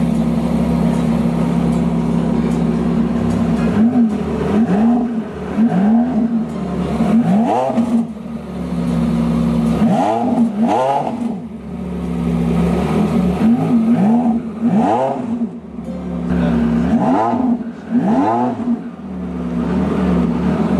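Porsche 918 Spyder's 4.6-litre V8 idling steadily, then revved in a dozen short throttle blips, often in quick pairs, each rising and falling back to idle.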